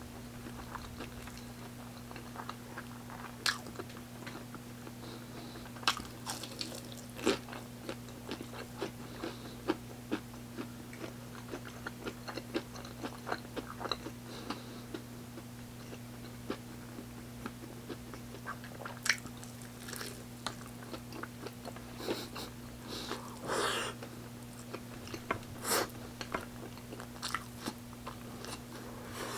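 Close-up eating sounds of a person biting and chewing fried chicken: irregular crunchy clicks and wet chewing. A steady low hum runs underneath.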